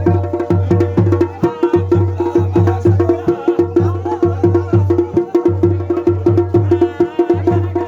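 Garhwali dhol and damau drums played together in a fast, steady rhythm: deep booming dhol strokes under sharp, rapid damau strokes.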